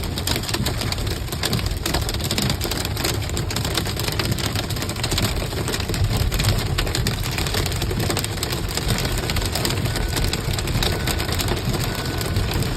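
Hail and rain pelting down in a dense, steady patter of countless small hits over a low rumble.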